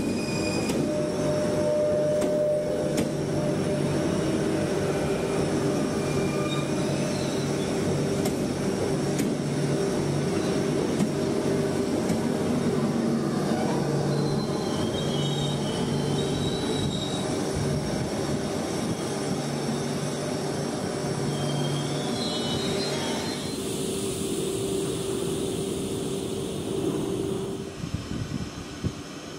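Double-deck RER electric train moving along the platform: steady rumble of the wheels with the traction motors' steady whining tones and a couple of brief high wheel squeals. The sound drops away near the end.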